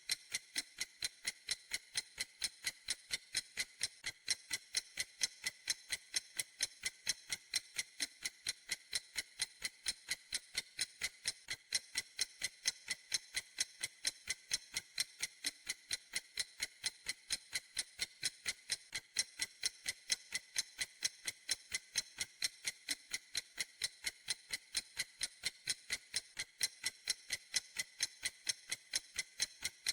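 Clock ticking in a steady, even rhythm, each tick a sharp, bright click.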